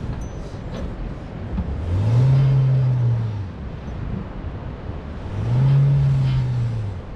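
Four-wheel-drive engine revving up and easing off twice, about two seconds in and again about five and a half seconds in, while climbing a soft sand track, over steady rushing noise.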